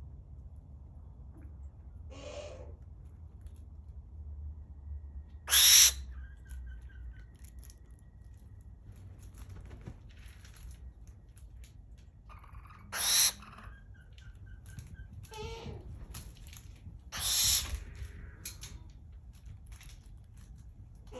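Barn owl screeching: short, harsh shrieks, each well under a second long. Three loud ones come several seconds apart, with fainter ones between them, over a steady low background rumble.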